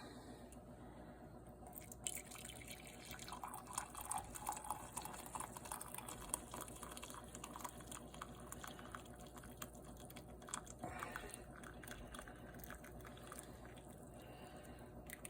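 Boiled coffee dripping and trickling faintly, with many small scattered ticks that thin out over the last few seconds.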